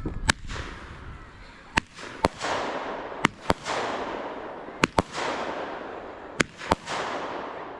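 Fireworks going off: sharp bangs, mostly in pairs, about every one and a half seconds, each followed by a fizzing crackle.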